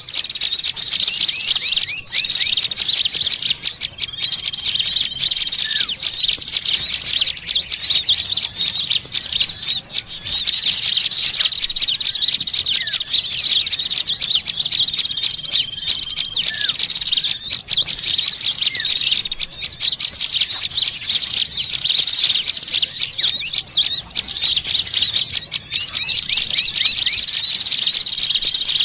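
Dense, unbroken high-pitched chattering and chirping of many small songbirds calling over one another, a noisy mixed-flock chorus of the kind played as a bird-lure (pikat) recording.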